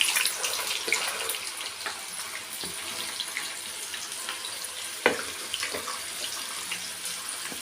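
Peeled field beans (pithiki pappu) frying in hot oil in a pan: a steady sizzle with scattered small crackles, and one sharper tap about five seconds in.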